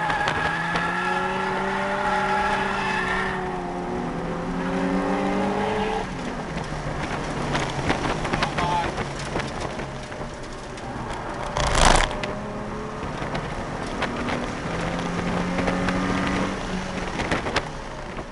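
Nissan 350Z's 3.5-litre V6 engine heard from inside the cabin, its note climbing under acceleration on track, dropping about six seconds in, and climbing again near the end. A loud thump comes about twelve seconds in.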